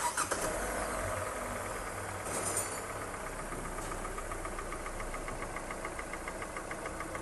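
Hyundai/Kia G4NA 2.0-litre four-cylinder petrol engine starting up abruptly and then idling with a fast, regular knock. The mechanics tie this knock to scuffing on the cylinder walls, a common fault of this engine.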